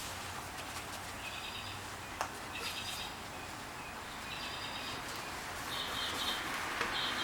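A bird chirping in short repeated phrases, about one every second and a half, over a faint steady hiss. There is a single sharp click about two seconds in.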